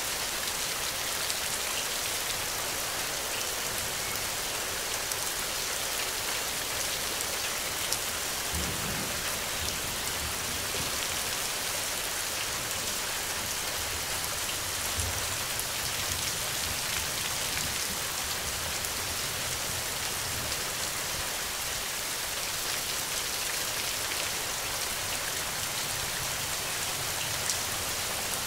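Steady rain falling: an even hiss with scattered drop ticks. Low rumbles come through a few times near the middle.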